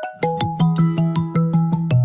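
Phone ringtone melody: one tune cuts off at the very start and a new one begins about a fifth of a second in, a quick run of bright notes over a held low bass.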